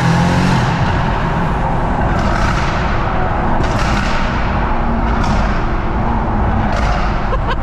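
BMW M140i's turbocharged 3.0-litre straight-six pulled hard in a tunnel, a loud, dense rushing roar from the screamer pipe venting the wastegate straight to air. Several short, sharp bursts cut through it, about a second and a half apart.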